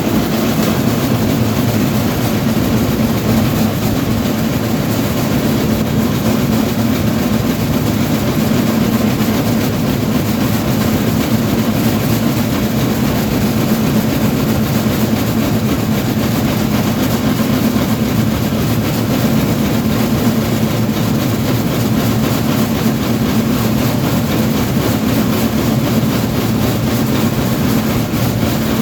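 Train running steadily: a continuous loud drone of engine and rail noise, with no horn or distinct knocks.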